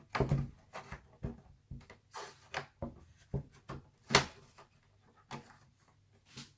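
Irregular plastic clicks and small knocks as an Alienware M17x R2 laptop's internal cover is pulled forward and worked loose, with one sharper snap about four seconds in.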